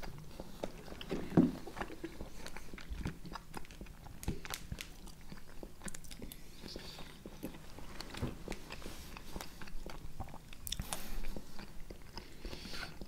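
Close-miked chewing and wet mouth sounds of two people eating soft vareniki and kiwi slices, with many small scattered clicks and smacks.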